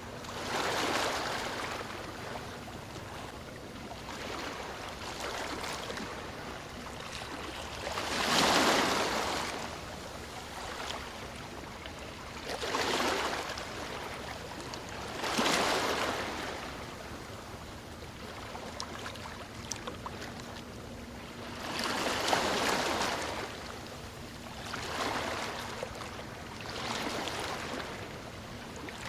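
Ocean waves breaking and washing up the shore, a surge every few seconds over a constant hiss of surf, the biggest swells about a third and halfway through and again near three quarters in.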